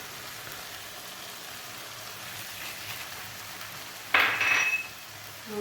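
Chopped vegetables sizzling steadily in a frying pan as they sweat down, with a brief louder scrape that carries a ringing note about four seconds in.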